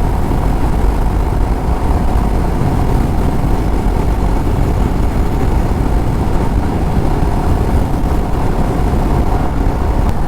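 Motorcycle running steadily at cruising speed, with heavy wind rush on the microphone and a steady low hum throughout.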